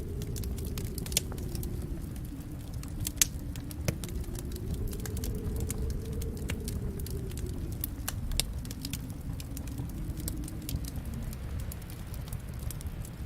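Fire in a fireplace crackling, with irregular sharp pops over a steady low rumble of burning. The loudest pop comes a little after three seconds.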